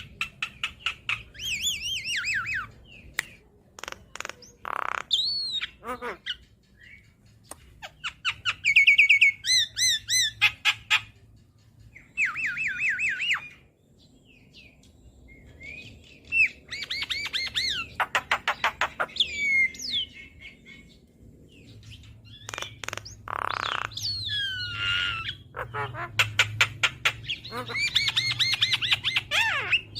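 Javan myna singing a varied, chattering song: fast runs of repeated whistled notes that rise and fall, sharp clicks and short harsh squawks, broken by brief pauses.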